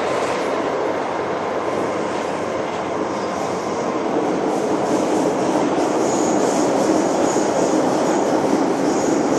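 MTR Island Line metro train running along the track: a steady rumble that grows louder about halfway through. Faint high wheel squeal comes and goes near the end.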